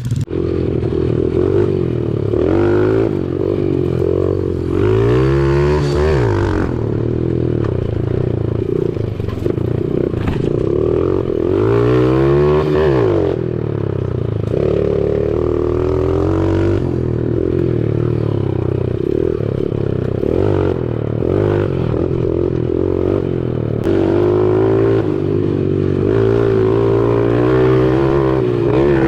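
Small four-stroke single-cylinder pit bike engine riding a dirt trail, its pitch repeatedly rising and falling as the throttle is opened and eased off, with some clattering along the way.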